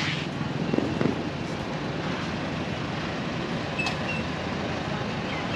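Motorcycle engine running steadily on the road, with a constant rushing noise over it.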